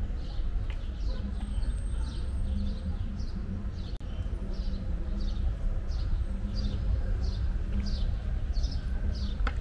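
A bird chirping over a steady low street rumble: short, falling chirps, about two a second, repeated without a break.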